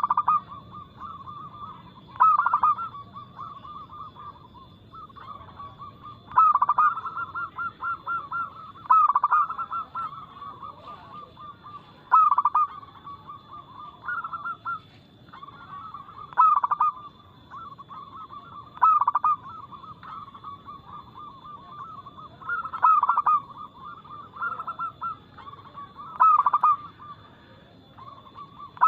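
Zebra dove (perkutut) cooing its song over and over: each phrase opens with a loud note and runs on in a quick string of softer coos, repeating every two to four seconds. A steady faint high tone runs underneath.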